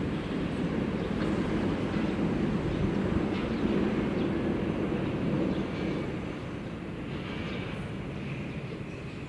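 A passing train's deep rumble, loudest in the first half and fading away from about six seconds in, with a faint high tone near the end.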